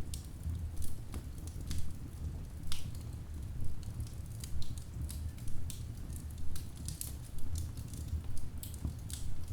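Wood fire in a fireplace crackling: irregular sharp pops and snaps, several a second, over a steady low rumble of the burning logs.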